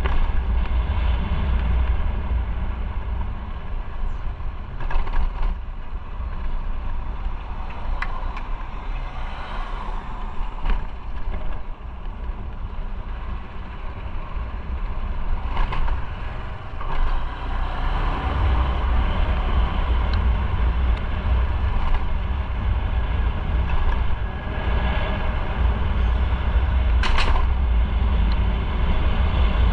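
Motorcycle on the move: a steady low rumble of engine and road noise that eases off for a few seconds around the middle and builds again, with a few brief clicks and knocks.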